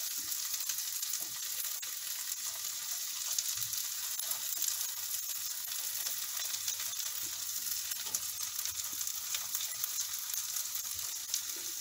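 Omelette frying in oil in a nonstick pan: a steady high sizzle, with scattered light ticks and scrapes from a silicone spatula pressing and shaping it.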